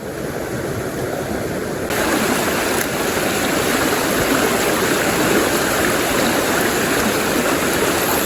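Rushing stream water: a steady wash of flowing water over rocks. It turns suddenly louder and brighter about two seconds in.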